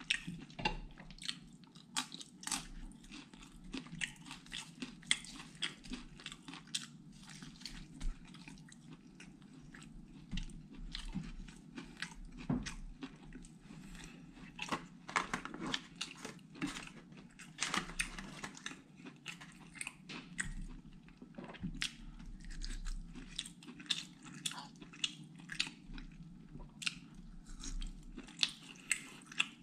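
Close-up chewing and biting of satay and pecel, with crunching, as a steady run of short, sharp wet mouth sounds.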